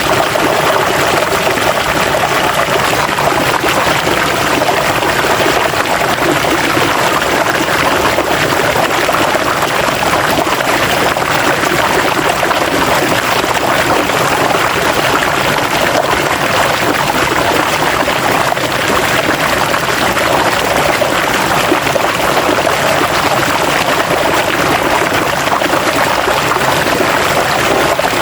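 River water flowing steadily over rocks, a constant rushing with a bright splashing edge.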